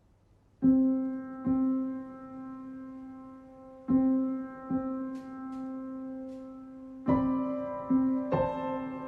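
Slow background piano music from the drama's score: single notes struck a second or more apart and left to ring, starting about half a second in after a brief hush.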